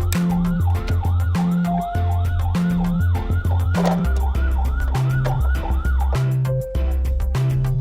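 A siren yelping with a fast rise-and-fall tone, about three sweeps a second, which stops about six seconds in.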